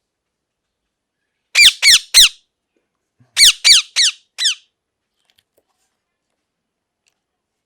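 Ring-necked parakeet squawking: three quick loud calls, each falling in pitch, then after about a second a run of four more.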